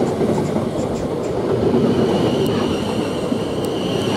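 South Western Railway Class 444 Siemens Desiro electric multiple unit departing and running past close by, its wheels rumbling over the rails. A steady high whine joins about halfway through.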